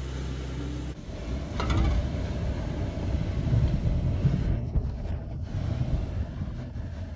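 Tornado winds rumbling low and heavily and buffeting the microphone. They come in suddenly about a second in, after a steady low hum.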